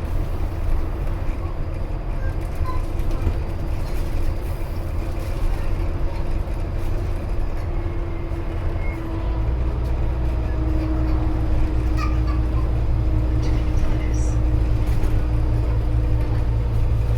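Scania Omnicity N230UD double-decker bus from inside, its five-cylinder diesel engine running with a steady low rumble that gets louder about nine seconds in as the bus speeds up. A faint steady whine runs under it.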